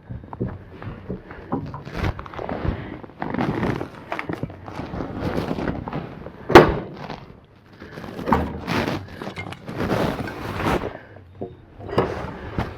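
Irregular knocks and thuds mixed with short scraping noises from hands-on building work, the loudest a sharp knock about six and a half seconds in.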